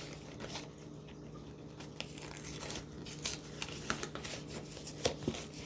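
Snack packaging being handled and opened: irregular crinkling and small crackles of a cookie box and its wrapped pouches, over a faint steady hum.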